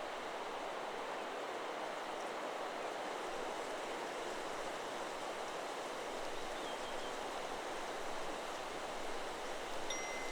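Steady rush of wind through forest trees, with a brief faint bird call about two-thirds of the way through. Near the end, the Chakra Chimes 'Solar Plexus' wind chime begins to ring with clear, sustained tones.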